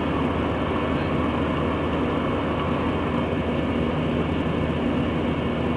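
Steady cabin noise of a jet airliner in flight: the even rush of airflow and engines with a constant low hum underneath.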